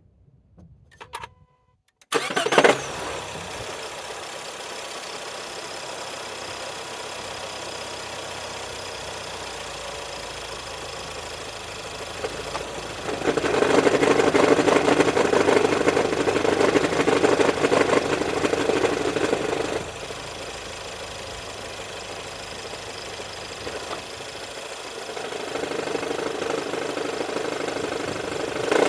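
2016 Ford Edge engine cranking and starting about two seconds in, then idling steadily. About 13 s in, with the air conditioning switched on, a loud droning noise comes in over the idle and drops away about 20 s in when the AC is turned off, rising again near the end. The owner believes the noise comes from the air conditioning system.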